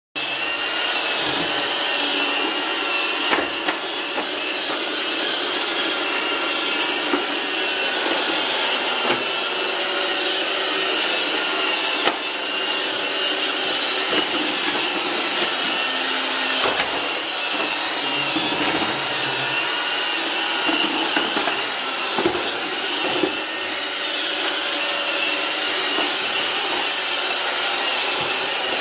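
iRobot Roomba 564 Pet robot vacuum running steadily, its motors giving a constant high whine over the brush and suction noise, with a few sharp knocks as it works its way over a door threshold bar.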